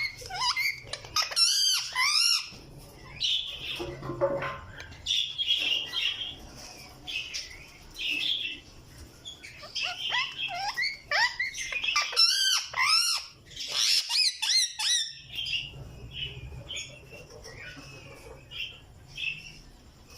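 Ringneck parakeet calling: loud squawks that wobble rapidly up and down in pitch, in bursts, with shorter chirps between them. The calls grow quieter and sparser over the last few seconds.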